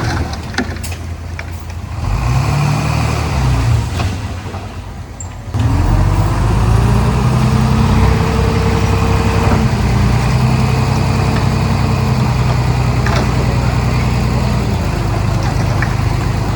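Komatsu D31P bulldozer's diesel engine revving. It rises briefly about two seconds in and drops back, then jumps sharply about five and a half seconds in to a loud, steady high-rev run that eases off near the end.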